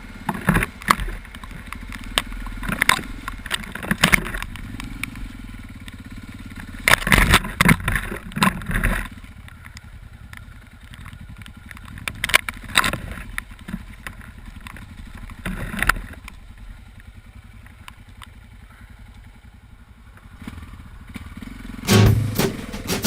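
Yamaha XT660Z Ténéré motorcycle riding over rough ground: a steady low running noise broken by repeated bursts of clattering and knocking, loudest about seven to nine seconds in and again near the end.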